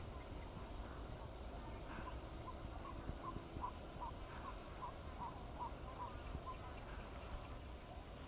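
Insects trilling, likely crickets, in a steady high drone. In the middle, a run of about a dozen short, evenly spaced chirps comes at about three a second.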